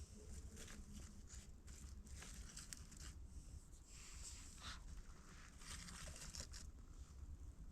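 Faint irregular crackling and rustling at a campfire being lit, with a low steady rumble underneath.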